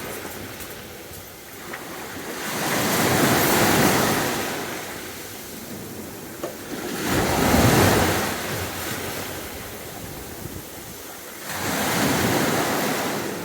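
Sea waves breaking and washing up the beach in three slow surges, about four seconds apart, each swelling up and then fading away.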